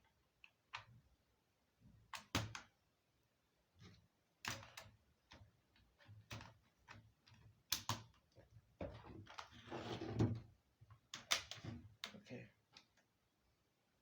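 Scattered clicks and knocks of hands working on a Dell Latitude E6440 laptop while a different RAM stick is fitted, with a longer rustling, scraping stretch about nine to ten seconds in.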